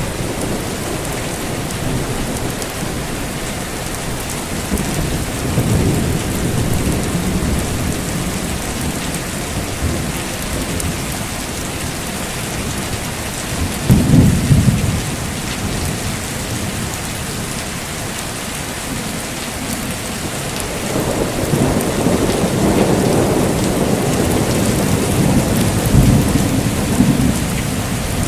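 Heavy rain falling steadily with rolling thunder. A short, loud crack comes about halfway through, and a long rumble builds over the last third.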